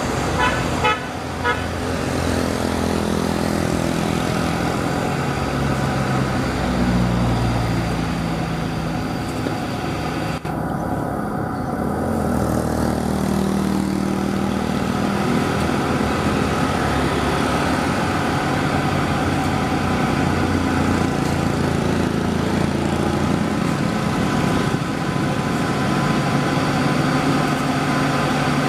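Truck engine running continuously, its pitch shifting up and down, with a quick series of short horn toots about a second in.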